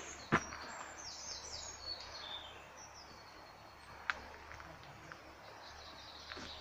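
Wild birds singing over a steady outdoor background; one bird gives a quick series of high notes that step downward about one to two and a half seconds in. A sharp tap near the start, and a smaller one about four seconds in.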